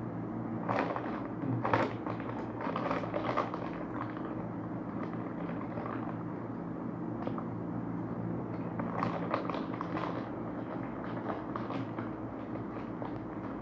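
Crispy layered corn snack being bitten and chewed, with irregular crunches that are strongest in the first few seconds and again around the middle, over a steady low hum.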